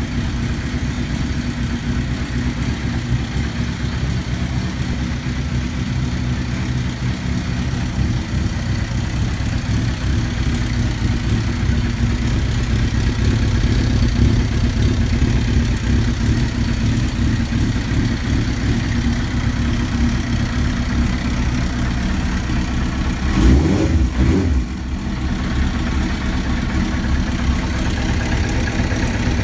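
2002 Suzuki GSX-R1000's inline-four engine idling steadily through a Yoshimura carbon-fibre slip-on muffler, with a short blip of the throttle a little over three-quarters of the way through.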